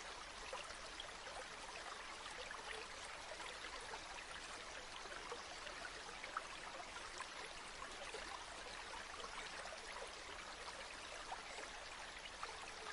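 River water flowing over stones: a steady rush with many small splashes and trickles, and one slightly sharper splash about six seconds in.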